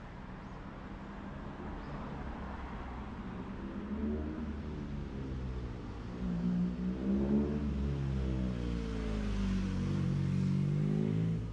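A motor vehicle's engine passing close by, its pitch rising and then falling away, with a low rumble that grows louder about halfway through.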